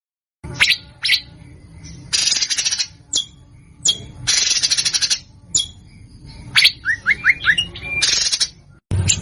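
A songbird's harsh song: sharp down-slurred whistles alternating with rasping, buzzy bursts about a second long, and a quick run of short rising notes. Near the end it cuts to another bird's fast, evenly repeated notes.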